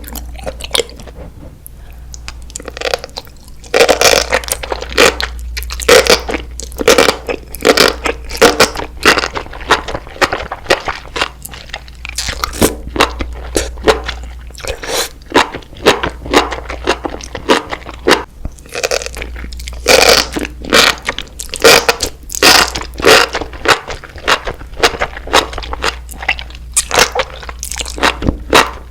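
A person biting and chewing crunchy food: loud, crisp crunches coming a few times a second, getting louder a few seconds in, over a steady low hum.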